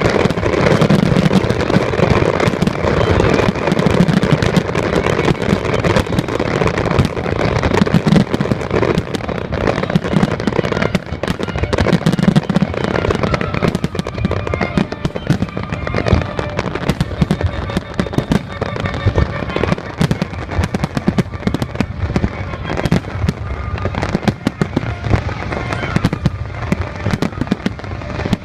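Fireworks display: a dense, continuous barrage of shells bursting and crackling, with music playing underneath; the bangs thin out a little toward the end.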